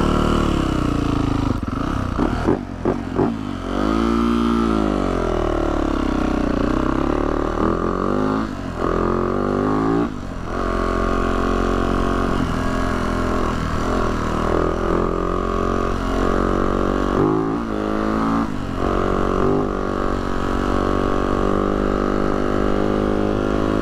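Yamaha YZ450F dirt bike's single-cylinder four-stroke engine running under way, its revs rising and falling again and again with throttle and gear changes, with short dips near 3 s, 10 s and 17 s.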